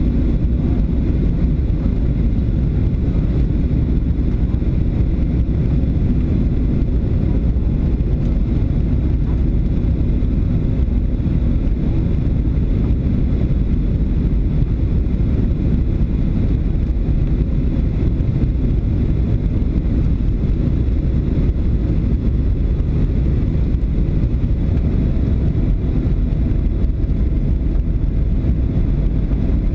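Steady low rumble of an airliner heard from inside the cabin: jet engine and airflow noise during the landing approach.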